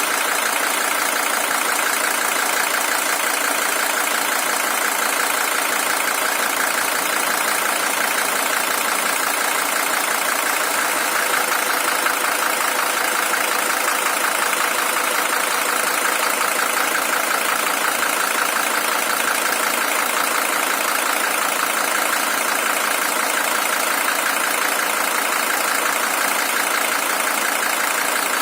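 Mercedes-Benz OM617 five-cylinder diesel engine, the original unit at 620,000 km, idling steadily and evenly.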